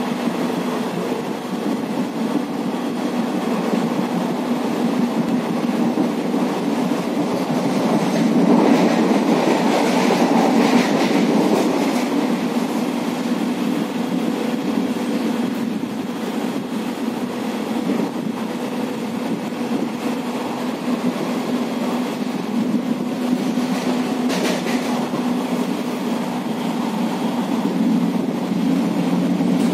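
Running noise of a moving express train heard from inside a passenger coach: a steady rumble of wheels on the track, swelling louder for a few seconds about a third of the way in.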